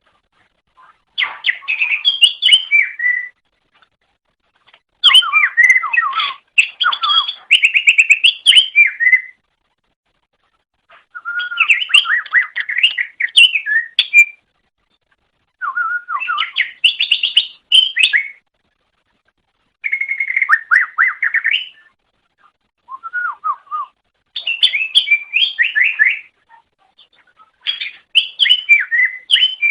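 Cucak ijo (green leafbird) singing: a run of loud, rapid warbling phrases of whistled and chattering notes, each one to four seconds long, with short pauses between them.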